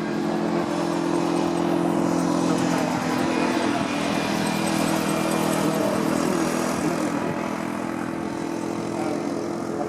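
Dornier Do-27's six-cylinder piston engine and propeller droning steadily in flight, growing louder through the middle and then easing off as the plane passes.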